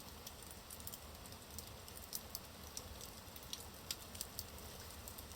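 Wood fire burning in a fireplace: a faint steady hiss and low rumble of the flames with irregular sharp crackles and pops from the burning logs.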